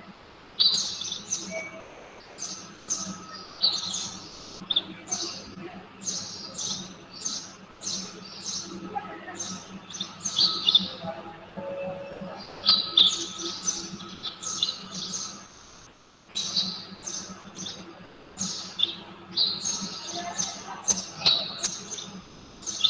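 Small birds chirping: runs of short, high chirps, several a second, with a brief lull about two-thirds of the way through, over a faint steady hum.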